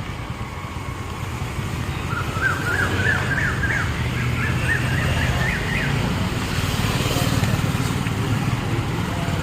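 Street traffic with a vehicle engine running steadily close by. In the middle, for about four seconds, there is a rapid series of short, high, rising chirps.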